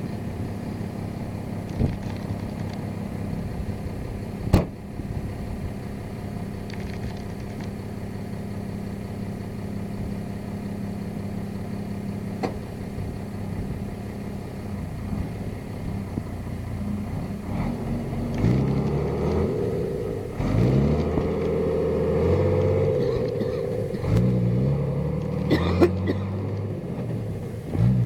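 Diesel engine of a 1988 Unimog SEE (FLU 419) running steadily, with a sharp knock about four seconds in. About two-thirds of the way through the engine gets louder and its pitch climbs and drops again and again as it is revved.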